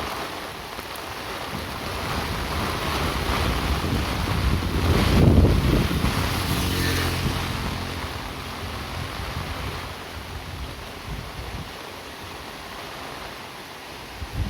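Steady hiss of rain and wet road, with a motor vehicle passing on the wet road: its engine hum and tyre swish rise to a peak about five seconds in and then fade away.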